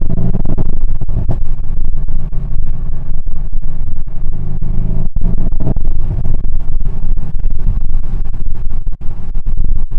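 Mercedes-AMG C63S's 4.0-litre twin-turbo V8 running loud under hard throttle.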